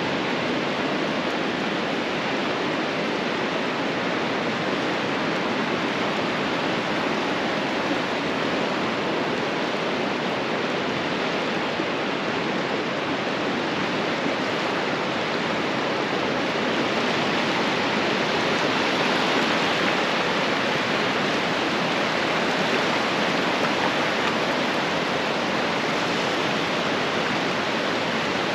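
Ocean surf washing onto a beach in a steady hiss, swelling a little over several seconds past the middle.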